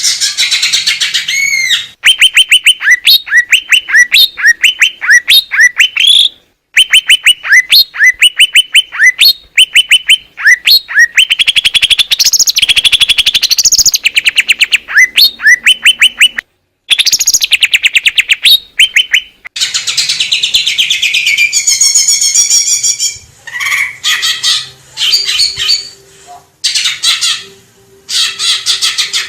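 Cucak ijo (green leafbird) singing: loud, fast runs of repeated sharp chirping notes in several separate phrases, broken by short silent gaps, turning to a more varied warbling toward the end.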